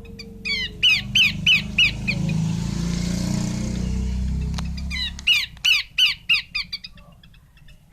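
Female Horsfield's babbler calling: two runs of sharp, downward-sweeping whistled notes, the second run faster than the first. A low rumble underlies the first few seconds and stops about five seconds in.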